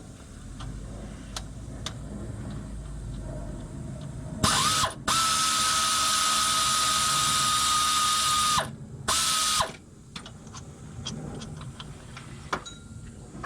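A power tool spins a fastener in a loud run of about four seconds, with a steady whine, then gives a short half-second burst. Small clicks and handling knocks come before and after.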